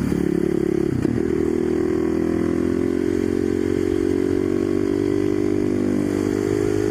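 Husqvarna 510SM's single-cylinder four-stroke engine running. A brief rough patch about a second in gives way to an even note that rises slightly and then holds steady.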